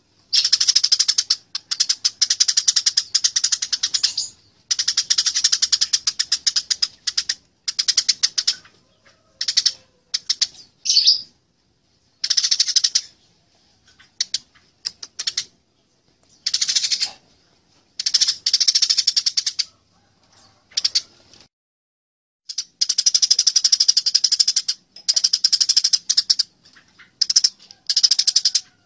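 Eurasian tree sparrows squabbling in a fight: bursts of fast, harsh chirping, each lasting one to a few seconds, separated by short pauses.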